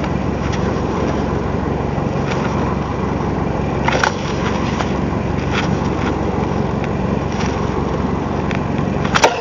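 A fishing boat's engine running steadily, a continuous drone with a couple of brief knocks, one about four seconds in and one near the end.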